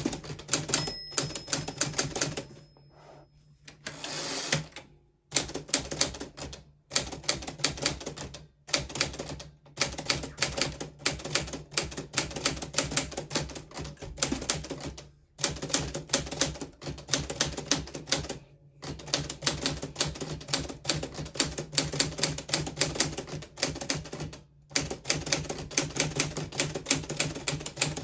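Keys striking on a 1940s Smith Corona Silent typewriter: rapid runs of keystrokes broken by several short pauses.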